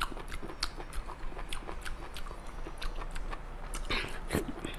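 Close-up chewing and biting of spicy marinated octopus: a run of wet mouth clicks and smacks, with a louder bite about four seconds in.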